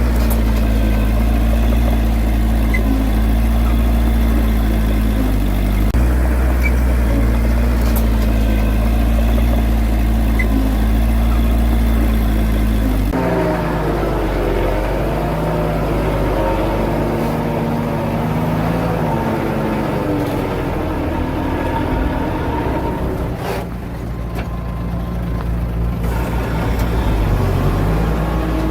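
Heavy-equipment diesel engine running steadily. About halfway through, the sound changes abruptly and the engine speed rises and falls as it works under load.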